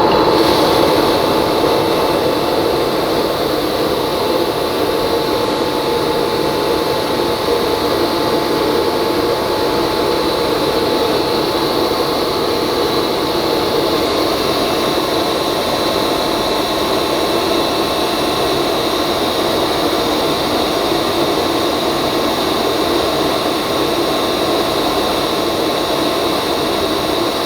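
Wieland FS216 industrial vacuum cleaner running steadily: a rush of air with a constant whine over it.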